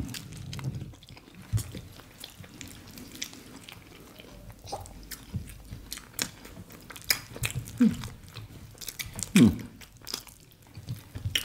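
Close-miked eating sounds: chewing and wet mouth clicks from two people eating fried plantain, mashed beans and soft bread. Two short falling hums come about two-thirds of the way in and near the end.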